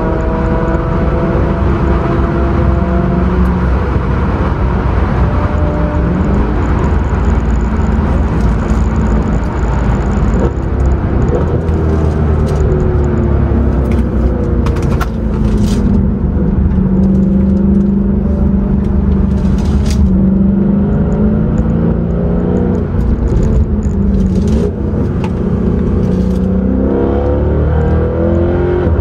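2013 Mercedes C63 AMG's 6.2-litre V8 heard from inside the cabin while driven hard on track, its pitch repeatedly climbing and dropping as it revs up and through gear changes, over steady tyre and road noise.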